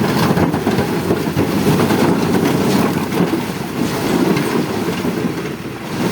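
Mahindra Arjun 605 DI tractor's diesel engine running under load, hauling a fully loaded trolley, with a dense rumbling clatter.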